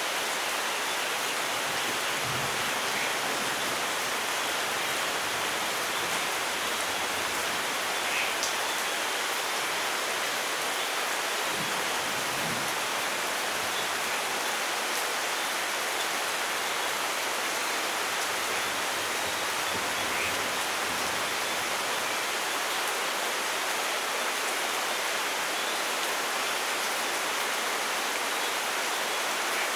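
Steady rainfall, an even hiss of rain that does not let up.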